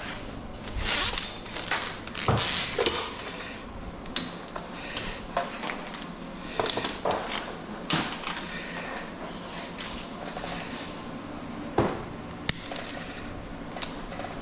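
Irregular clinks, clicks and knocks of small metal scrap being handled and worked, a few louder clattering bursts in the first three seconds and single sharp strikes later, over a steady low hum.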